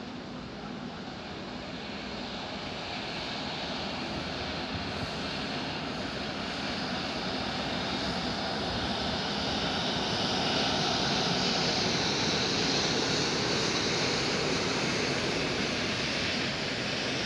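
Freight train of car-carrier wagons passing, a steady rolling noise of wheels on rails that grows louder over the first ten seconds or so and then holds, with a rising hiss.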